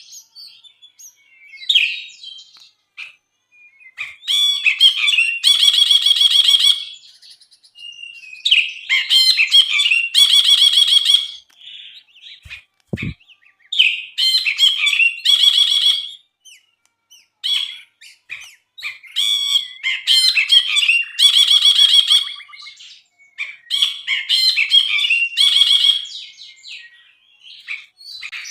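A brinji (a bulbul) singing in repeated phrases: quick chattering notes that run into a fast, buzzy trill about a second long, several times over. A single soft thump about halfway through.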